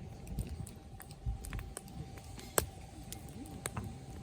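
Wood campfire crackling, with scattered sharp pops; the loudest pop comes about two and a half seconds in.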